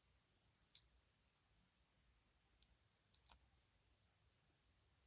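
A few small, sharp clicks, four in all with long gaps between them, the last two close together about three seconds in and the last the loudest.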